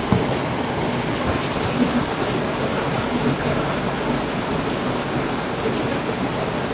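Heavy rain falling steadily, with a few louder drops or taps standing out.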